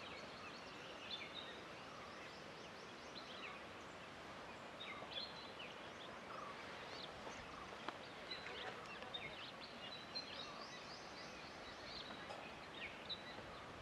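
Quiet open-air ambience with faint, scattered short bird chirps.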